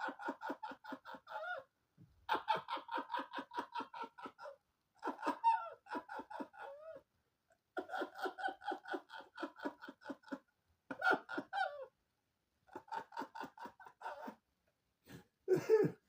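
A person laughing hard in a long fit. It comes in about seven bouts of quick, even pulses, with short breaks for breath between them. A louder, lower gasp comes near the end.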